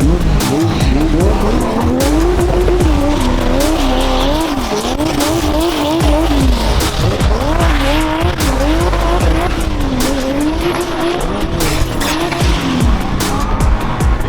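Car engine revving up and down over and over while the tyres squeal and skid through a drift.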